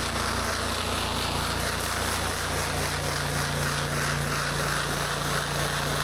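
An 8 GPM gas-engine pressure washer running steadily at a constant pitch, with the hiss of water spraying from the wand over it.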